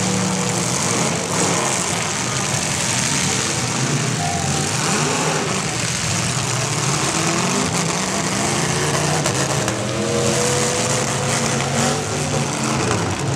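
Several demolition derby cars' engines running and revving together, their pitches rising and falling as they manoeuvre, over a constant hiss.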